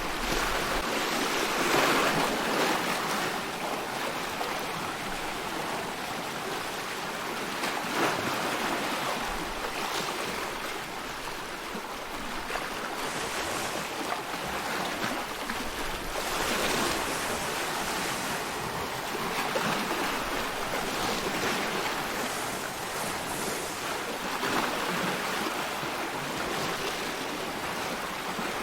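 Ocean surf: a continuous wash of breaking waves that swells and eases every few seconds.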